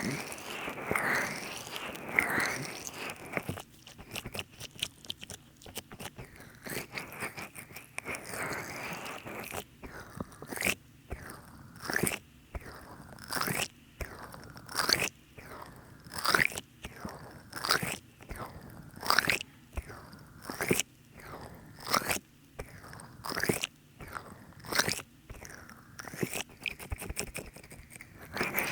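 Hands slick with too much massage oil rubbing and squeezing in a binaural oil-massage ASMR, making wet squelching sounds. A few seconds of dense rubbing thin out into a steady run of separate squelches, about one to two a second.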